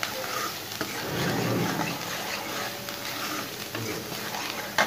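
Thick onion and ginger-garlic masala frying in ghee and oil in a nonstick pan, sizzling steadily as a metal spoon stirs and scrapes through it. A sharp knock near the end.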